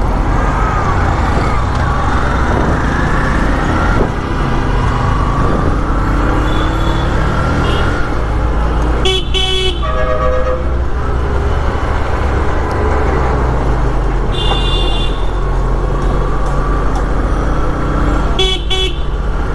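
Heavy city traffic heard from a moving motorcycle: a steady engine and road rumble, with other vehicles' horns honking several times, a double blast about halfway in, another horn a few seconds later, and two more short blasts near the end.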